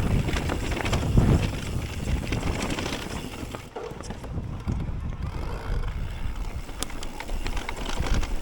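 Mountain bike riding over rough trail: tyres rolling on dirt and roots, with rattles and knocks from the bike and wind buffeting the microphone. It goes quieter for a second or so in the middle.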